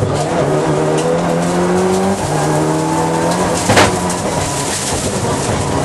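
Rally car engine heard from inside the cabin, pulling hard: its pitch climbs, drops at a gear change about two seconds in, climbs again, then a single sharp crack just before four seconds and the engine settles at a lower pitch.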